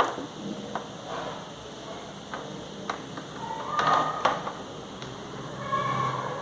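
Handling noise while unpacking a power cord and plug: scattered clicks and light knocks, with a short burst of plastic-packaging rustle about four seconds in.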